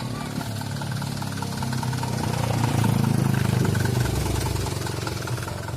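Truck engine running at idle, swelling louder for a second or so midway and then settling back.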